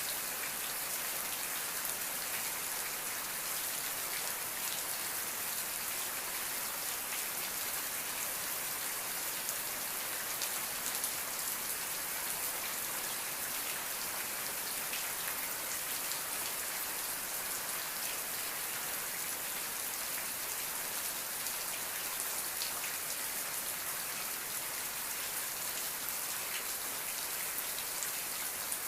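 Steady rain falling, an even hiss with many fine drop ticks and no let-up.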